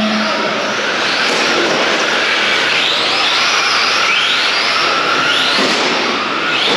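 Electric motors of a pack of 1/14-scale Tamiya Euro Truck RC trucks whining at race pace, the pitch rising and falling again and again as the trucks accelerate down straights and brake for corners, over a steady hiss of tyres and motors.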